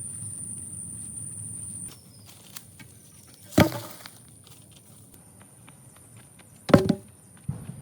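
A steady low hum that cuts off about two seconds in, followed by two sharp knocks about three seconds apart and a fainter knock near the end.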